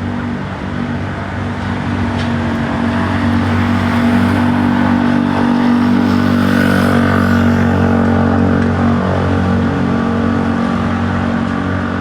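A steady, loud engine drone that grows a little louder over the first few seconds and then holds.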